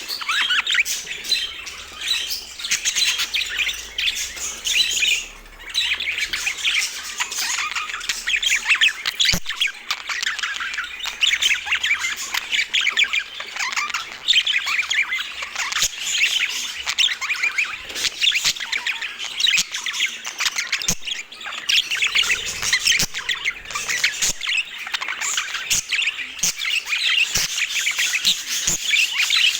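Budgerigars chattering: a continuous stream of rapid chirps, squawks and warbling, with a few short clicks now and then.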